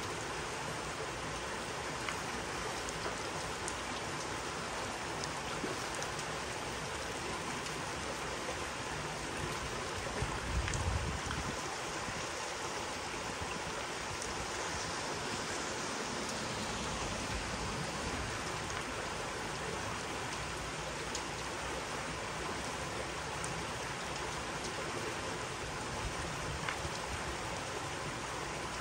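Steady rain falling, an even hiss, with a brief low rumble about ten seconds in.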